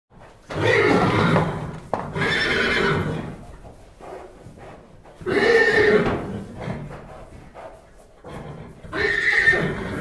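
A horse neighing four times, each whinny lasting about a second: two back to back near the start, one about halfway through, and one near the end.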